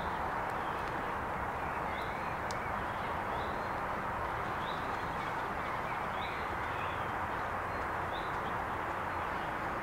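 A bird calling over and over in short rising chirps, about once a second, over a steady rushing background noise.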